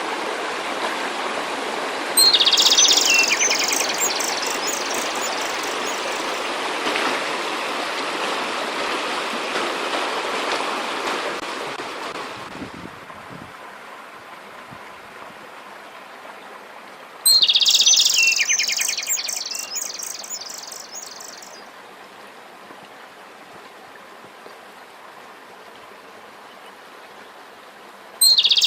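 A songbird sings a loud, abrupt phrase of rapid repeated notes three times: about two seconds in, midway, and at the very end. Under the first half, the steady rush of a stream runs and fades out about twelve seconds in.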